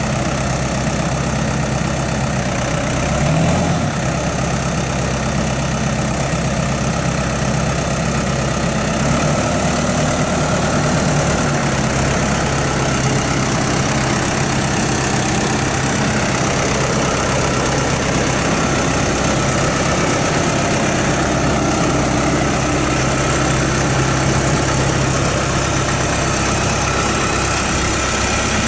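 New Holland T4050 tractor's diesel engine running steadily.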